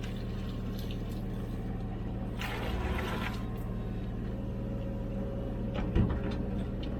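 Komatsu PC16 mini excavator's diesel engine running steadily, with a brief hiss about two and a half seconds in.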